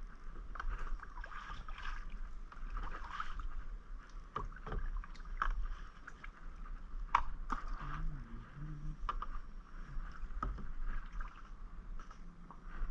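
Kayak paddle strokes in calm water: irregular splashes and drips as the blades dip in and lift out.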